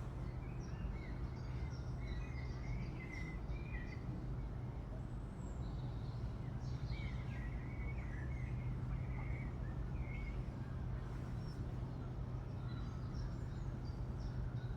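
Outdoor birdsong: many small birds chirping and twittering in short phrases, over a steady low background rumble.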